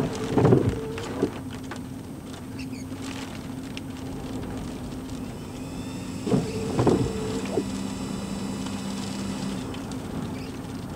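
Steady hum inside a parked vehicle, broken twice by a brief tone of about a second that starts and stops with a click: once near the start and again about six seconds in, followed by a lower tone held for about two seconds.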